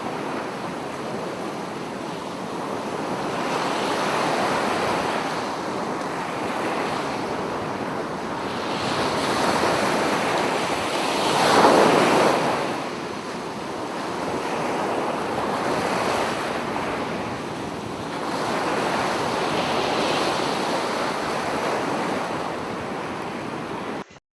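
Ocean waves surging and washing in, swelling and fading every few seconds, the loudest surge about halfway through. The sound cuts off abruptly just before the end.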